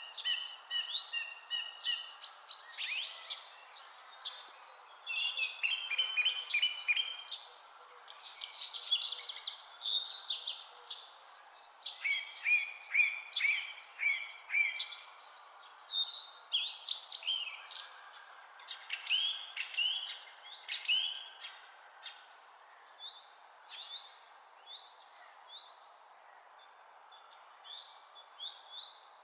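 Several birds singing together: quick chirps, trills and falling whistled notes in overlapping phrases, thinning out to sparse single chirps in the last third, over a steady soft hiss.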